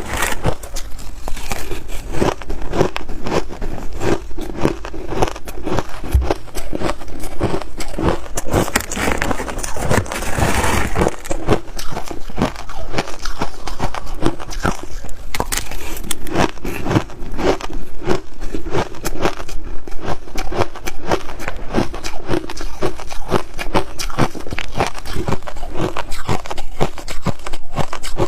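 Close-up crunching of frozen snow and ice being bitten and chewed, a dense run of sharp crackling crunches one after another.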